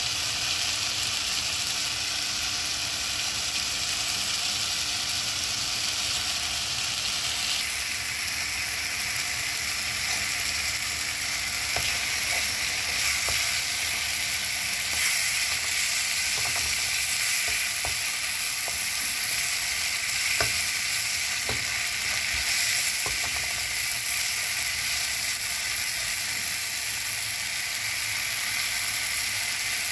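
Onion-tomato masala sizzling in a nonstick wok as it is stirred with a wooden spatula. The sizzle grows louder about a quarter of the way in, and there are a few light clicks.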